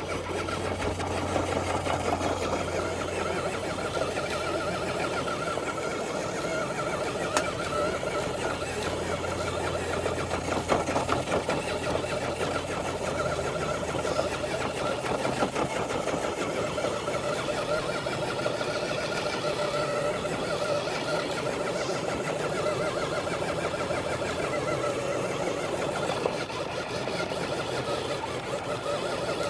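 Traxxas TRX4 RC truck's electric motor and drivetrain whining steadily under load as it drags a brick-weighted dead sled. A low hum underneath fades out about twelve seconds in.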